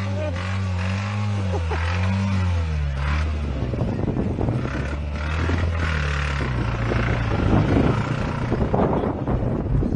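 Car engine running flat out with its oil and coolant drained. Its steady high-revving note breaks up about three seconds in into a rough, irregular rattle that gets louder, the sound of the oil-starved engine failing.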